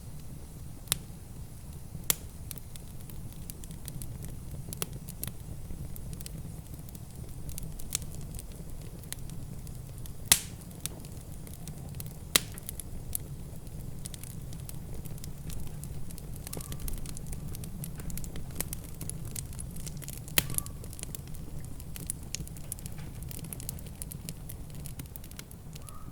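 Wood fire in a fireplace crackling, with scattered sharp pops, the loudest about ten seconds in, over a steady low rumble.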